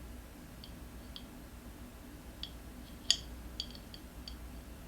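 A few light clicks and ticks, with one sharper click about three seconds in, from hands handling the tyre's valve and valve extension.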